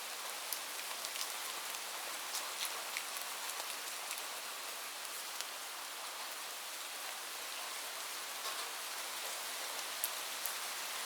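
Light rain falling steadily: an even hiss with scattered sharp drop ticks on a hard surface.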